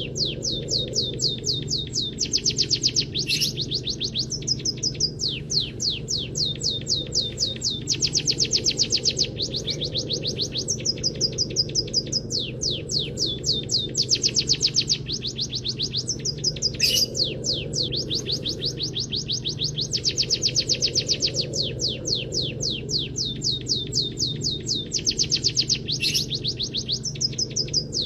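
Munia (emprit kaji) singing a canary-style song of fast trills of repeated high notes, in phrases broken by short pauses every few seconds, over a steady low hum.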